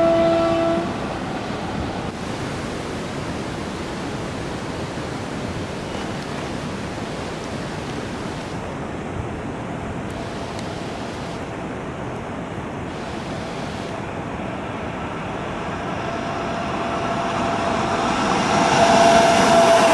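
An electric locomotive's horn cuts off about a second in, followed by a steady rushing noise as the train approaches. Over the last few seconds the noise grows louder and the horn sounds again, getting louder and starting to drop in pitch at the very end as the train nears.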